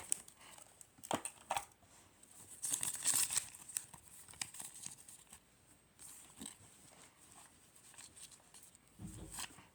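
Paper and plastic wrapping being handled, crinkling and tearing in irregular short crackles, with a longer rustle about three seconds in and a soft bump near the end.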